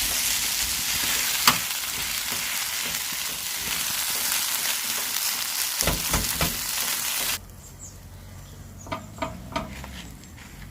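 Food sizzling in hot oil in a pan, with a sharp clack of a utensil about one and a half seconds in and a few knocks near six seconds. The sizzle cuts off suddenly about seven seconds in, leaving a quieter stretch of light clicks and taps.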